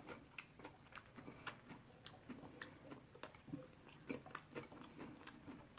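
Faint close-up chewing of chicken: small wet mouth clicks and smacks, about two a second.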